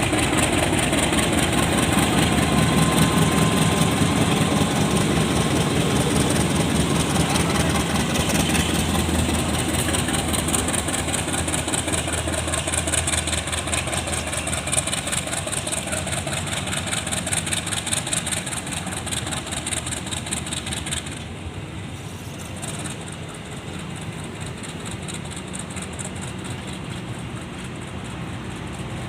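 Diesel locomotive engine running, loudest at first and gradually fading away. The high hiss drops out abruptly near the end, leaving a quieter low rumble.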